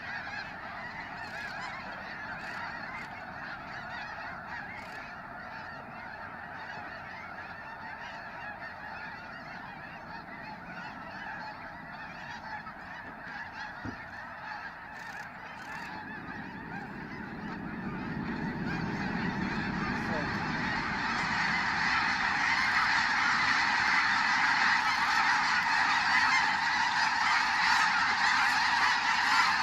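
Huge flock of snow geese honking in a dense, continuous chorus that swells noticeably louder a little past halfway through.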